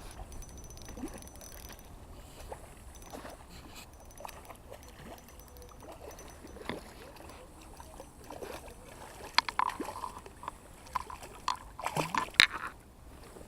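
Faint scattered clicks and knocks, then a busier run of louder clicks with water splashing and sloshing over the last few seconds.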